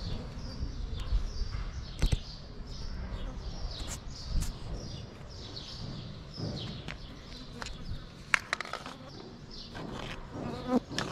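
A small bird chirping over and over, short high notes that drop in pitch, about two a second. A few sharp clicks or knocks fall among them, the sharpest a little past the middle.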